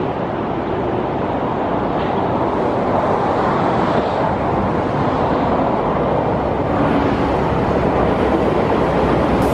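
SS8 electric locomotive and its passenger coaches approaching on the line: a steady running noise, slowly growing louder.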